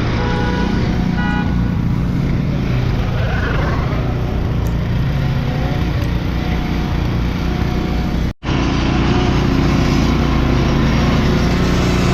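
An engine running steadily close by over the general noise of a city street, broken by a brief gap about eight seconds in.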